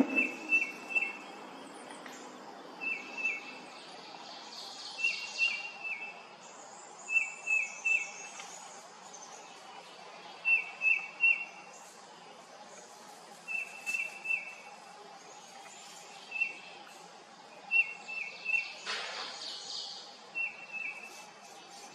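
A bird calling in quick runs of two to four short, sharp chirps, repeated every two to three seconds, over a steady outdoor background hiss.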